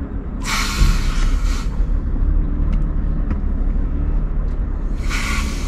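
Steady low rumble of a Scania R580 truck driving, heard inside the cab, with two brief hissing noises, one about half a second in and one near the end.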